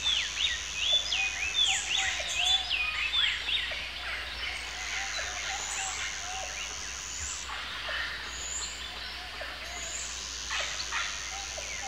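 Birds calling: a rapid string of sweeping chirps for the first few seconds, thinning out after, over a lower short note repeated steadily. A steady high whine comes and goes above them.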